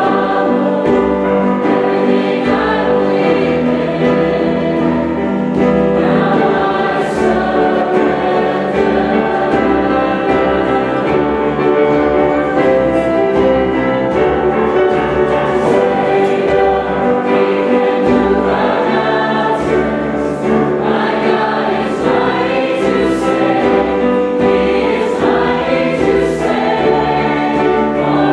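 A choir singing in held chords, with a steady low bass underneath.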